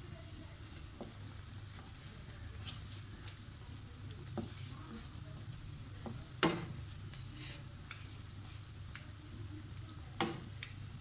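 Potato pakoras sizzling as they deep-fry in hot oil in a non-stick karahi. A slotted spatula turns them over, scraping and knocking against the pan a few times, most sharply about six and ten seconds in.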